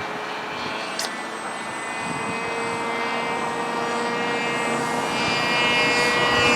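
ModelAero Polaris XL RC seaplane's motor and propeller running at steady high throttle in flight: a whine of several steady tones that grows slightly louder toward the end, from a throttle stuck at high.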